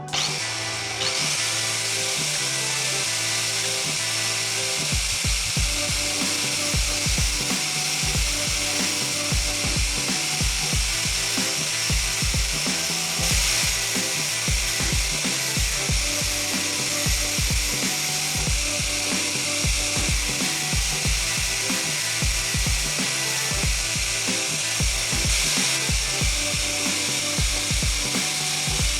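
A power tool running steadily with a high, even hiss, under background music that picks up a regular bass beat about five seconds in.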